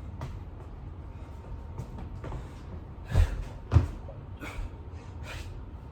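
Burpees on the floor: two heavy thuds about three seconds in, half a second apart, as the body drops and lands, among a series of short puffing breaths.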